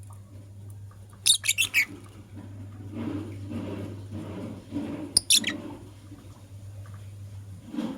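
Lovebirds chirping: two quick bursts of sharp, high chirps, about a second in and again past the middle, with softer irregular scuffling between them. A steady low hum runs underneath and stops near the end.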